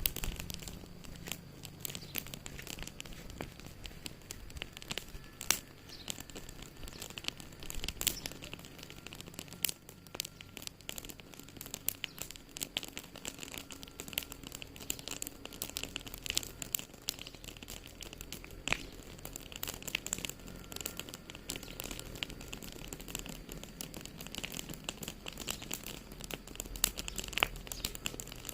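Wood fire crackling in a fireplace: a steady stream of small irregular crackles with a few sharper, louder pops.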